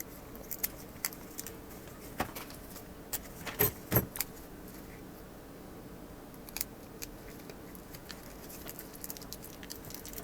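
Scattered light clicks and taps of small metal tools and phone parts being handled while heat-resistant tape is laid over a phone's microphone flex cable. The loudest knocks come in a short cluster about three and a half to four seconds in.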